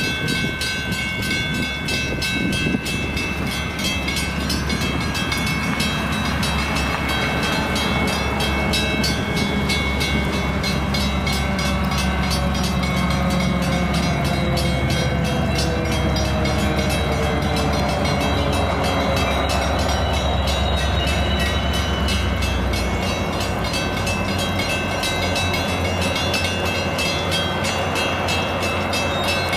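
A train running past at close range: a steady low rumble with wheel and rail noise. Through the middle a whining tone slides slowly down in pitch, and the rumble eases off about two-thirds of the way in.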